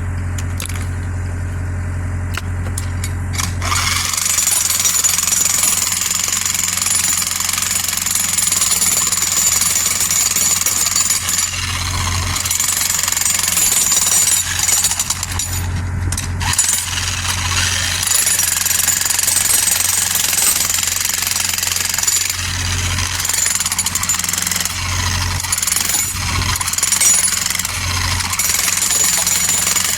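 Mini excavator engine running steadily. About four seconds in, a breaker starts a rapid, continuous hammering and keeps it up, while the engine note swells and dips beneath it.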